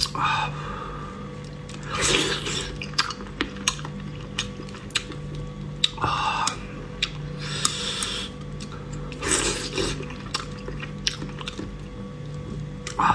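Close-miked eating of raw seafood sashimi: chewing and biting, with many small clicks and a few louder bursts every few seconds, over quiet background music.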